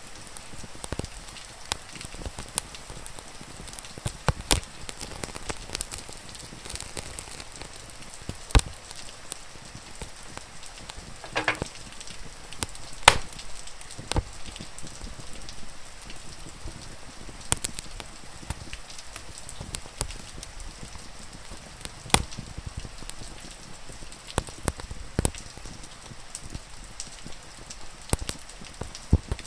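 Wood fire crackling, with frequent sharp pops over a steady hiss of rain. About eleven seconds in there is a short wavering whistle.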